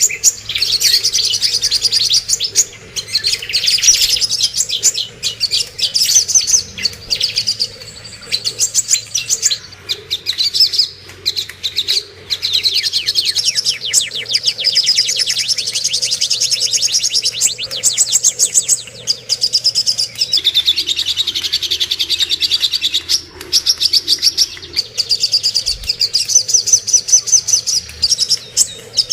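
Recorded songbird song of cucak kombo and songok birds: long runs of rapid, high-pitched chirps and trills in quick series, broken by a few short pauses.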